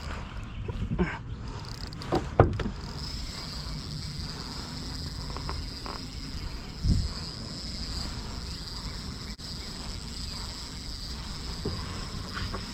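A steady high-pitched insect chorus, with a few short knocks and thumps about 1, 2.5 and 7 seconds in.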